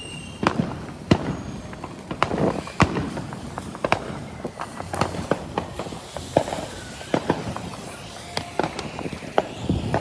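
Fireworks going off, an irregular run of sharp bangs and crackles.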